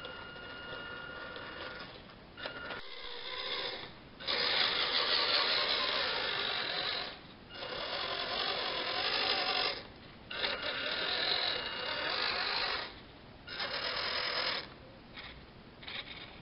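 Electric motor and geared drivetrain of a WPL B-36 RC military truck whirring under throttle in four bursts, each a second or two long with short pauses between, as the truck drives on a hard floor. A thin steady whine comes before the first burst.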